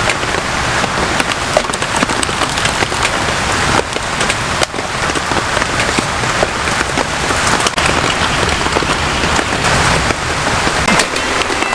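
Heavy rain pouring down steadily, a dense patter of many drops striking a surface.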